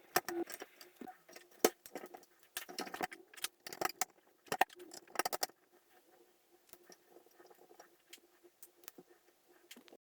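Small metal parts clinking and knocking as the pressed-steel toy truck is handled and put together. There is a quick run of clinks over the first five seconds or so, then sparser, fainter taps, over a faint steady hum.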